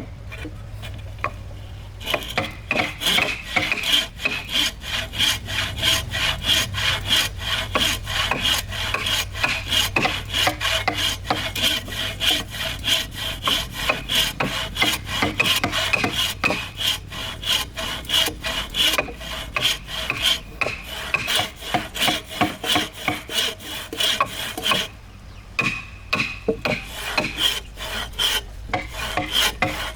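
A hand tool worked back and forth on wood in quick, even strokes, with a short pause near the end.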